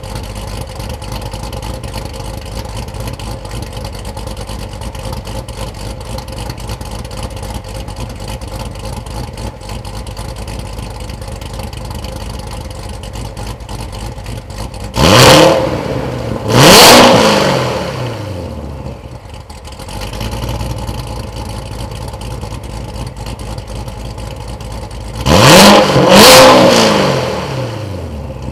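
Supercharged C7 Corvette Z51's V8 idling steadily. About halfway through the throttle is blipped twice in quick succession, each rev rising sharply and falling back to idle, and it is blipped twice more near the end.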